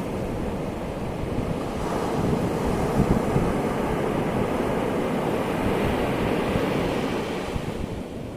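Ocean waves breaking and washing on the shore in a steady rumbling rush. The rush swells a couple of seconds in and eases near the end, with wind buffeting the microphone.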